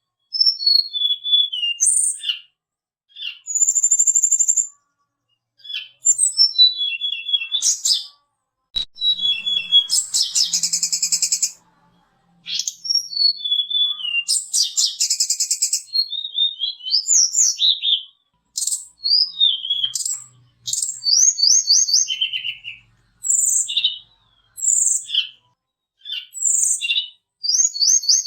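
Tledekan gunung (hill blue flycatcher) singing a long series of short, high whistled phrases, many sliding downward, mixed with fast rattling trills, with brief pauses between phrases.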